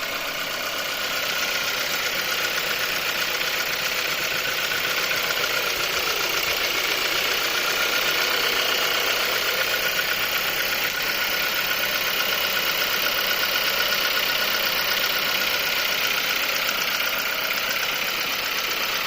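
Volkswagen Golf Mk7 engine idling steadily with an even, fast mechanical rattle, at a constant speed with no revving.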